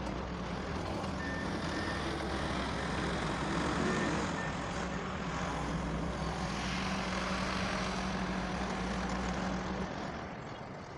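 Doosan DX140 excavator's diesel engine running steadily under load, with a few short high beeps in the first half. The engine note eases off near the end.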